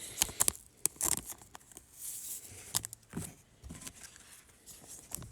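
Trading cards and their packaging being handled: scattered light taps and clicks, with a longer rustle of wrapper about two seconds in.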